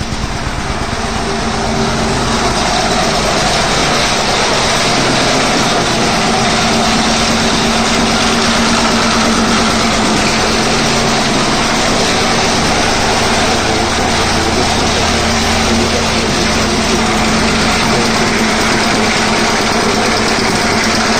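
Petter-type diesel engine running, picking up a little over the first couple of seconds and then running steadily.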